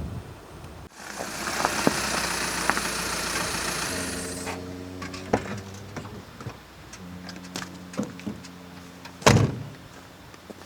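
A loud rushing hiss for the first few seconds, then a campervan's engine idling with a steady low hum, with scattered clicks and a sharp thump about nine seconds in.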